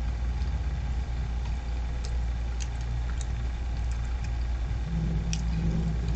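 A steady low rumble like an idling engine, with scattered faint clicks over it.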